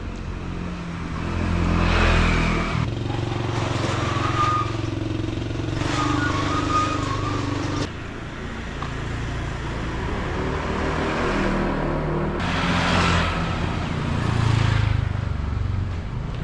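Road traffic passing close by: vehicle engines hum continuously, swelling loud as vehicles pass about two seconds in and again near the end.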